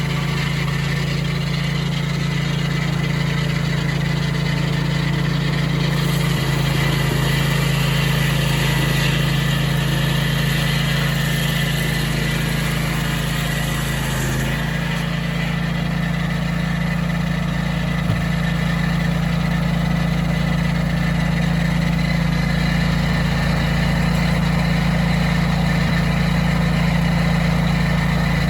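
Portable sawmill's engine running steadily under load while the blade cuts through a cottonwood log. The higher part of the sound shifts about halfway through.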